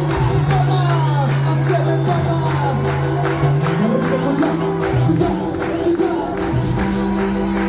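Cuarteto band playing live: held bass and keyboard notes under a fast, regular percussion beat with tambourine-like jingles.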